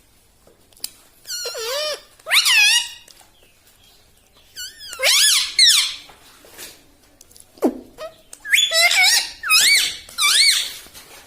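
Pet rose-ringed parakeet (ring-neck parrot) vocalizing in three bursts of high, warbling, squeaky calls that rapidly rise and fall in pitch.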